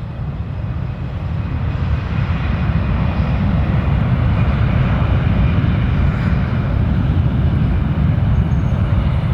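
Jet airliner engines at takeoff power, a deep rumble that builds over the first three seconds and then holds steady.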